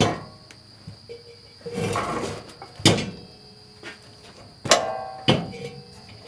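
Metal hardware and parts of a disc harrow being handled during assembly: several sharp metallic clinks and knocks with brief ringing, and a short scraping rustle about two seconds in.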